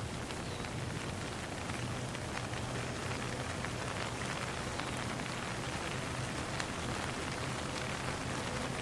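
Steady rain falling, an even hiss with many single drop hits ticking through it.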